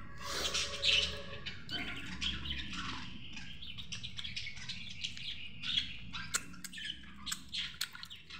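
Birds chirping and squawking in the background, with several sharp clicks near the end from fingers tapping on a glass plate.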